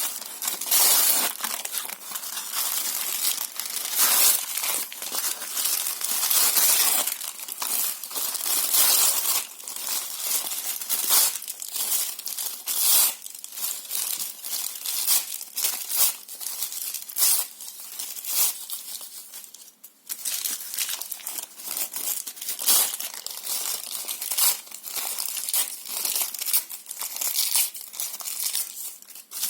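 Paper and cardboard being torn and crumpled by hand: dense, irregular crackling and ripping with frequent loud tears, and a brief pause about twenty seconds in.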